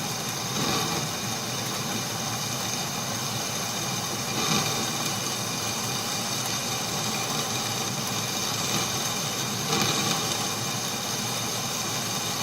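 Atlas metal lathe running while a boring tool cuts the inside of a hole, with the steady cutting sound swelling briefly louder twice. The tool is hooking into the cut, the sound a machinist doesn't like, with the risk of the tool snapping off.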